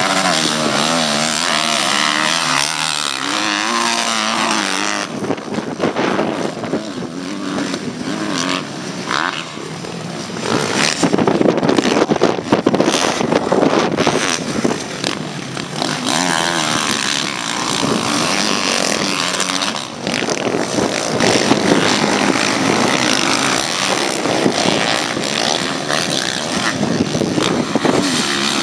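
Motocross bikes racing, their engines revving up and down in pitch as riders work the throttle and shift. The engines grow loudest about eleven seconds in and again from about twenty seconds, as bikes come close.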